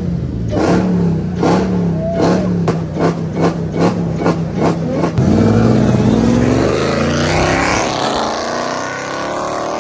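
Car engine running loudly, then accelerating from about five seconds in, its pitch rising steadily. Before that come sharp, regularly spaced bangs, a few a second.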